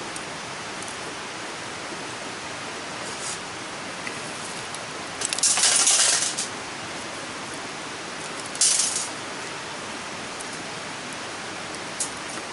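Steady rush of a mountain stream. A loud hissing burst of about a second comes about five seconds in, a shorter one follows near nine seconds, and a few light clinks come near the end.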